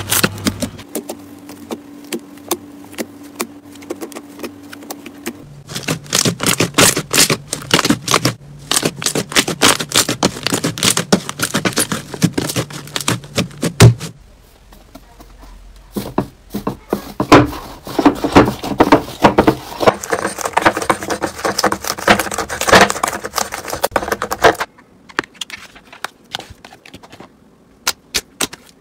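Slime being squeezed and pressed by hand, giving quick runs of crunchy clicks and crackles. The sound comes in spells, with a short lull about halfway and sparse clicks near the end.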